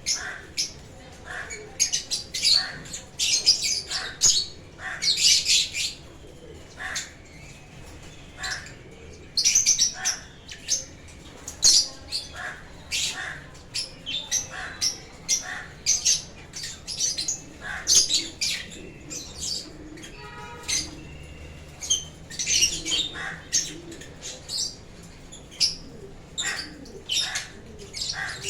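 Several lovebirds chirping and squawking, with short, sharp, high-pitched calls coming in quick, irregular succession and often overlapping.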